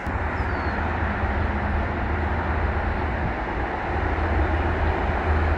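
Train rolling past close by: a steady low rumble under a noisy rush of wheels on rails, which comes in suddenly at the start.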